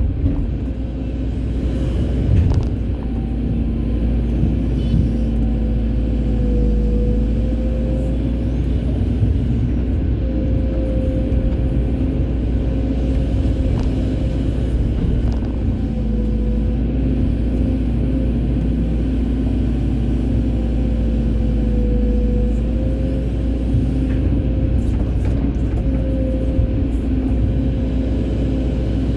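Excavator's diesel engine running steadily under load, its pitch sagging briefly a few times as the hydraulics work.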